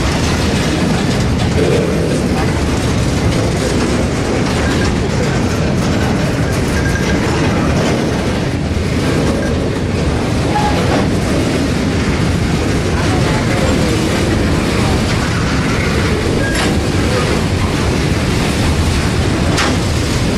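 Freight train of steel gondola cars rolling past close by, a steady rumble and clatter of wheels on the rails, with a couple of sharp clanks in the last few seconds.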